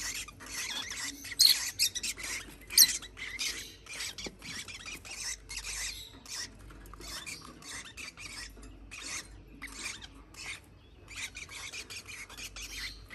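Parrot chicks giving raspy begging calls: a rapid run of short, hoarse chirps, with two louder, shrill squawks near the start.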